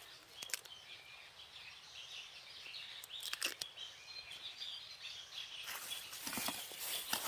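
Outdoor ambience with birds chirping, a few light knocks or snaps, and rustling that gets louder near the end.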